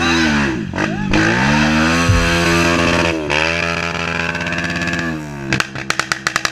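Dirt bike's single-cylinder four-stroke engine under load on a trail, revving up and down as the throttle is worked. Near the end it drops to a slow, even chugging beat at low revs.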